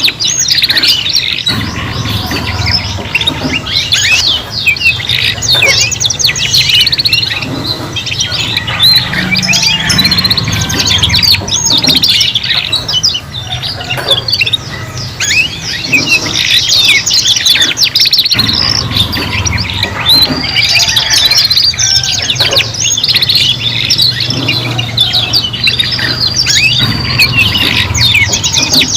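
Domestic canaries singing together: a continuous, dense song of fast trills, rolls and chirps with no pauses.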